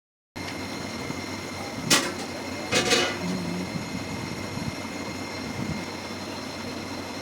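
A steady hum with two sharp knocks, the first about two seconds in and the second about a second later.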